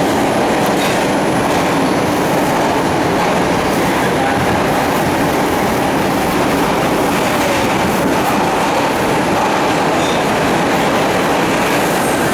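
Bombardier R142 subway train running on the rails: a loud, steady rumble of wheels and track with some clatter.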